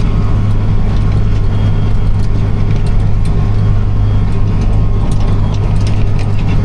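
Tractor engine running steadily under load while hauling a silage wagon, a constant low drone with a few light rattles.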